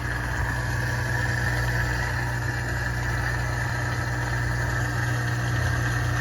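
Miele dishwasher with an F70 error, its drain pump running nonstop as a steady hum. F70 is the sign of a fault in the machine's Waterproof leak-protection system.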